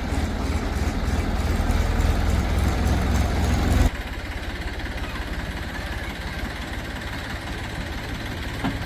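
Heavy diesel engine of earth-moving machinery running steadily. It drops suddenly to a quieter, steady run about four seconds in.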